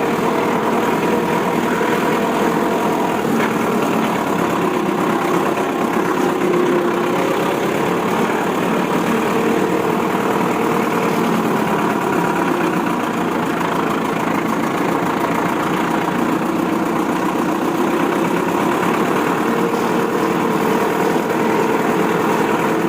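Heavy vehicle engine running steadily at idle: a continuous drone whose pitch slowly wavers up and down.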